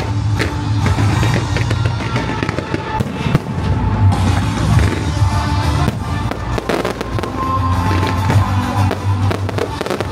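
Fireworks and firecrackers crackling and popping in rapid, continuous bursts, over loud music with a steady low beat.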